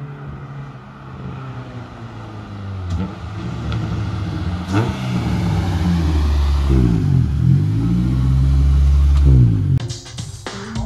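BMW 2002 with a swapped-in Honda K-series four-cylinder engine driving up the road and close by, its engine note growing steadily louder to a peak. The engine sound cuts off suddenly near the end.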